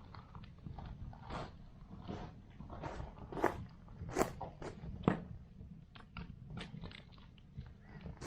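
Wood fire crackling in an earthbag fire pit: irregular sharp snaps over a low steady hum, the loudest about three and a half, four and a quarter, and five seconds in.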